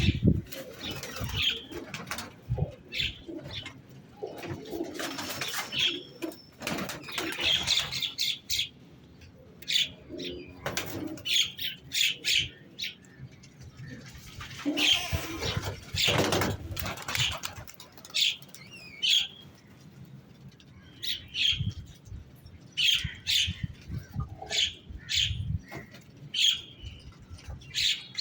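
Pigeons cooing, with many short high chirps and bursts of wing flapping.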